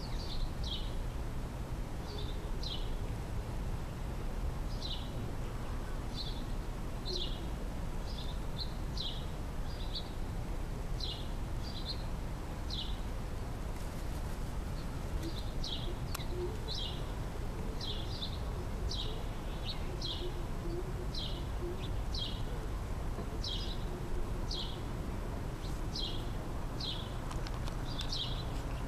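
A small bird chirping over and over, short high chirps that slide downward, about one or two a second, over a steady low background rumble.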